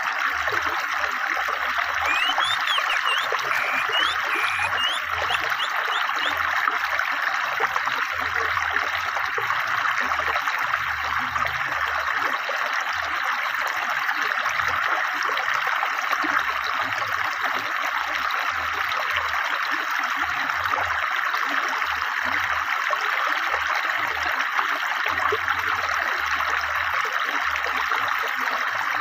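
A swift, clear river flowing and babbling steadily. A forest bird gives a few short chirps about two to five seconds in.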